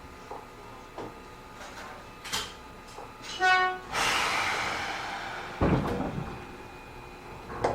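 Inside a Matsumoto Electric Railway 3000-series electric train: a short horn blast about three seconds in, followed at once by a hiss that fades over a second or so, then a low thump. Faint clicks and rattles of the car come in between.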